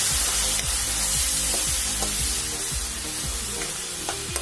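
Spiced tomato-onion masala sizzling in hot oil in a kadai just after a little water has been added, stirred with a steel ladle that clinks now and then. Background music with a regular beat plays underneath.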